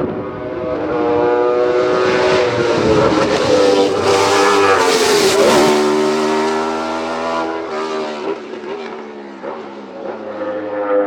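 A hill-climb race car engine at full throttle, approaching and rising in pitch. It passes loudest about five seconds in, then drops in pitch and fades as it climbs away.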